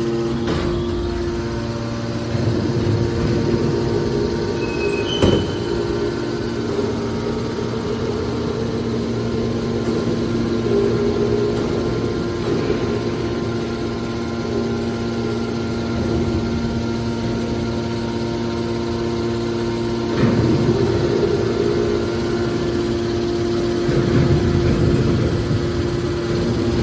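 Car baler's power unit running with a steady mechanical hum. Louder surges of noise come at times, and there is one sharp knock about five seconds in.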